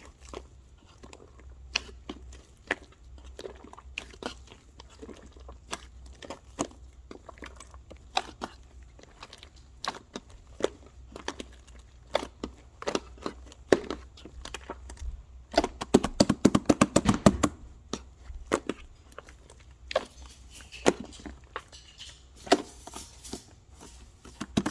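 Blue shaving foam being squeezed and poked by hand, giving irregular crackling clicks and pops. A dense, rapid run of pops comes about two-thirds of the way through.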